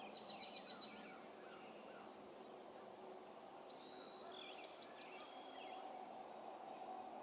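Faint birdsong over a steady low hum of distant background noise. One short song phrase of quick high chirps comes right at the start, and a second phrase about four seconds in opens with a high held note followed by a run of quick chirps.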